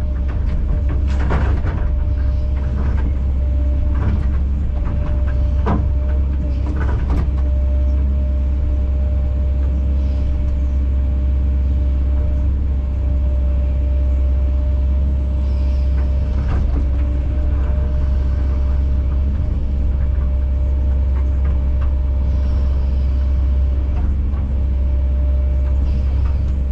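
Kobelco SK210 excavator's diesel engine running steadily with a deep hum, with several sharp knocks and clunks in the first few seconds of the machine working.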